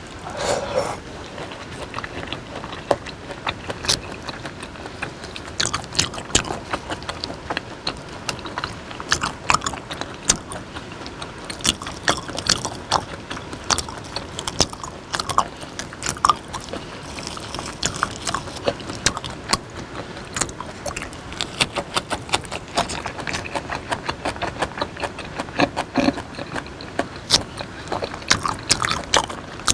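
Close-miked chewing of raw beef: a steady stream of wet smacks and mouth clicks.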